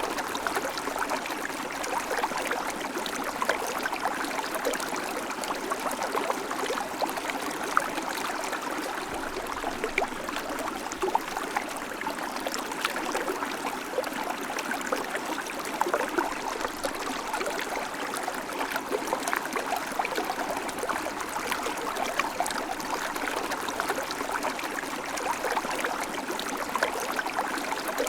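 River water flowing steadily over rocks, a continuous rushing with many small splashes and gurgles.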